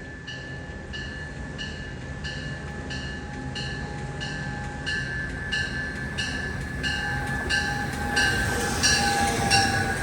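MARC commuter train arriving, its locomotive bell ringing at an even pace of about one and a half strokes a second over a rumble that grows louder as the train comes in.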